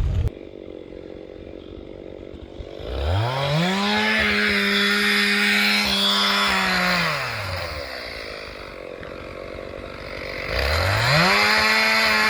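Chainsaw bucking spruce logs to length: it idles, revs up and holds at full speed for about four seconds, drops back to idle, then revs up again near the end.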